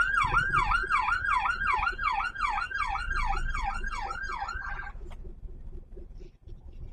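Emergency vehicle siren on a fast yelp, about three rising-and-falling sweeps a second, growing fainter and stopping about five seconds in.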